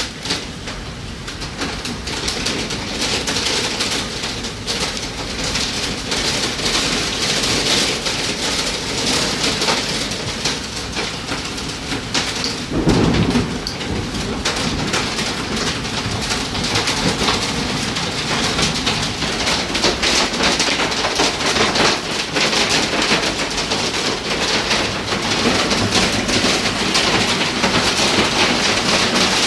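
Heavy rain and hail pelting down in a dense, steady patter of countless small impacts. There is a brief low rumble about thirteen seconds in.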